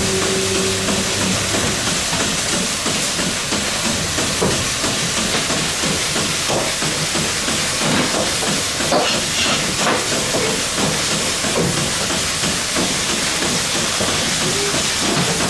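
Goat milking machine running in the parlour: a loud, steady hiss of vacuum and air, with scattered faint clicks.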